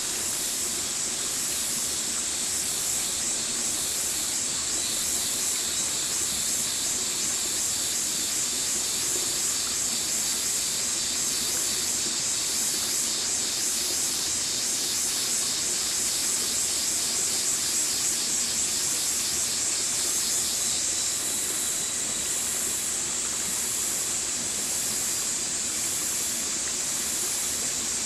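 Stream water flowing steadily, an even rushing hiss. Through the middle a fast, high pulsing sound rides on top and cuts off suddenly.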